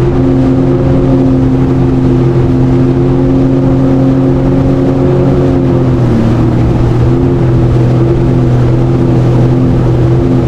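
Jet ski engine running steadily at cruising speed over a rush of wind and water, with a slight drop in engine pitch about six seconds in.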